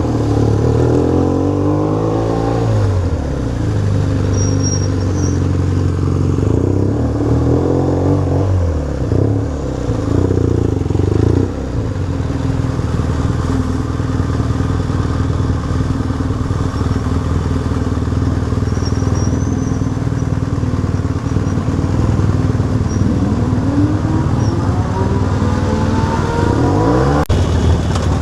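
Motorcycle engines running among a large group of bikes, a steady low engine drone with the pitch rising and falling several times as throttles open and close and bikes pass. A brief click near the end.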